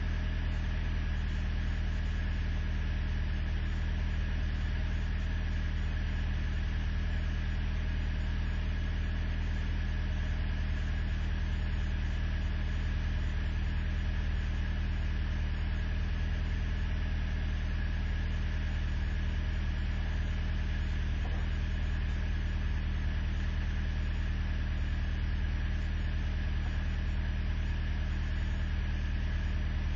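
Truck engine idling steadily on a cold start at six below zero.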